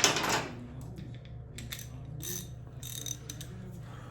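Hand tools worked on the motorcycle's bolts: a loud metallic clatter at the start, then a few short, irregular ratchet clicks and metallic clinks.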